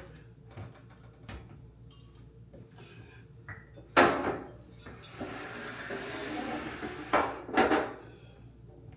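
A loud knock or bang about four seconds in, a few seconds of rustling, then two more knocks close together near the end.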